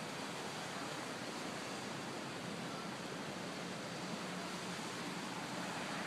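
Steady rush of the flooded Fox River's fast, high water, an even noise without breaks.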